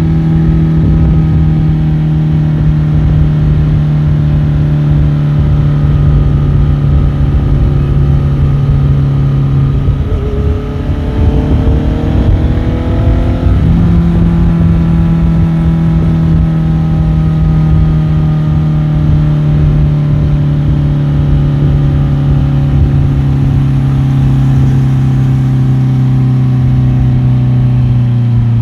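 Motorcycle engine running on the road, its note slowly falling off. About ten seconds in it climbs for a few seconds, then drops back sharply and goes on slowly falling.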